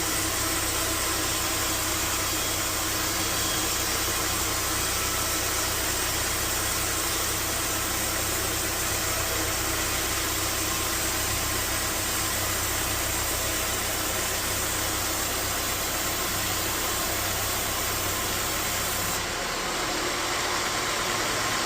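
Bandsaw sawmill machinery running steadily, a low hum under a broad hiss. Near the end the sound changes, the high hiss thinning and the low hum dropping.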